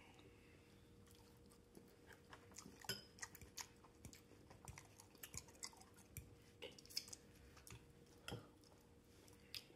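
Quiet close-up chewing and mouth smacking as someone eats soft cooked broccoli and carrots with melted cheese: irregular small clicks and smacks, several a second, with a faint steady hum underneath.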